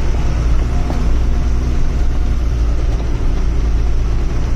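Truck engine running steadily with a deep, even drone.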